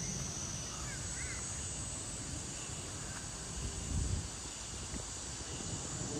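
Woodland ambience: a steady high insect hum with a few faint bird chirps about a second in, and a brief low rumble near four seconds in.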